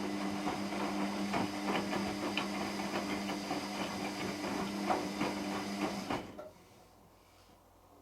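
Hotpoint Extra WMXTF742K washing machine running mid-cycle: a steady motor hum with irregular clattering and knocking on top, which stops abruptly about six seconds in.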